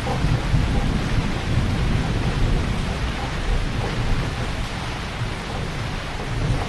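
Heavy rain falling steadily, with a continuous deep low rumble beneath the hiss of the rain.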